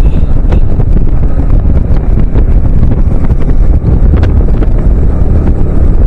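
Car driving on a rough mountain road: a loud, continuous low rumble of road and wind noise with frequent small knocks and rattles.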